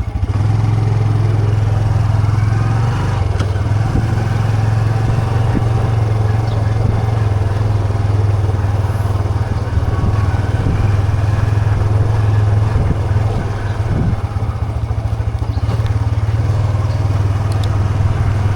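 Yamaha PG-1's small single-cylinder four-stroke engine running at a steady, even pitch, with slight shifts in engine speed a few times.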